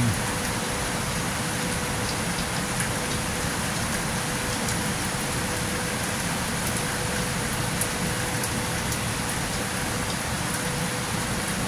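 Heavy rain pouring down in a steady, even hiss, with a faint steady hum underneath.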